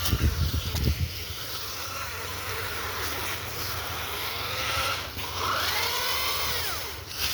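Small electric motor of an RC crawler truck whining, its pitch rising and falling as the throttle is worked, clearest in a rise and fall about six seconds in, while the truck is hung up on branches.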